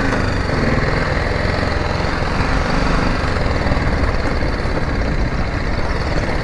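Motorcycle engine running steadily with a rough low rumble, picked up close by the rider's camera.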